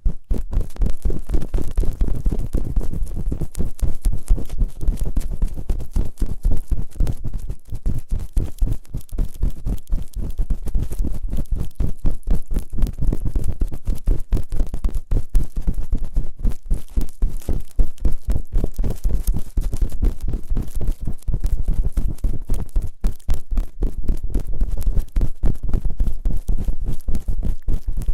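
Fast, deep rubbing and scraping on binaural microphone ears for ASMR ear-cleaning, with rapid close strokes, several a second, that go on without pause.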